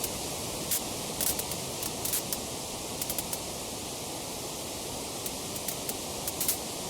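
Wood fire crackling: a steady hiss with sharp pops scattered through it, several coming in quick clusters and the loudest near the end.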